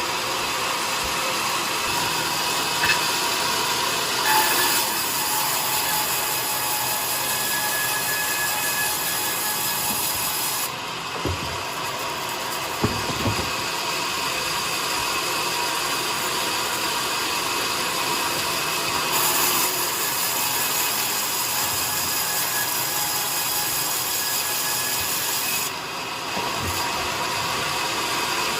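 Sawmill saw cutting coconut wood: a steady machine noise, with a brighter hiss during two cutting passes, about 4 seconds in and again about 19 seconds in, each lasting around six seconds. A few knocks come in between the passes.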